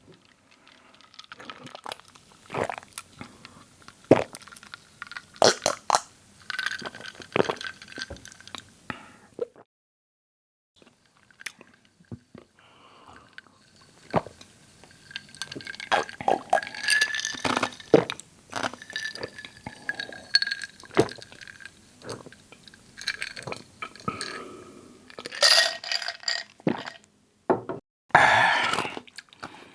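Close-up drinking and mouth sounds from tasting a fizzy soft drink: sips, swallows and lip smacks, heard as many short clicks, with a pause about ten seconds in.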